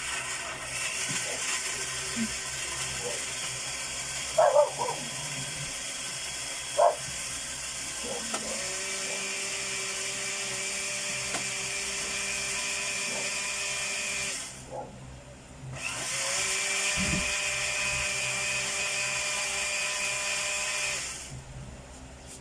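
Electric blender running, most likely blending a buko (young coconut) shake: one run of about fourteen seconds, a short pause, then a second run of about five seconds. A couple of short clinks sound in the first seven seconds.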